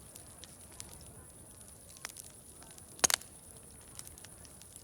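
Wood fire crackling: scattered small ticks and pops over a faint steady hiss, with a quick burst of loud, sharp pops about three seconds in.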